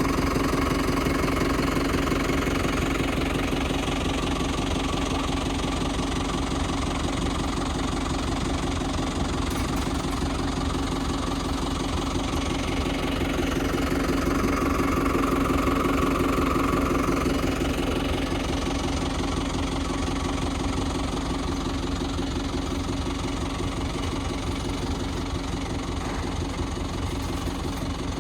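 Tractor's diesel engine running steadily with a dense, rapid clatter, pulling a drip-tape laying machine through the field.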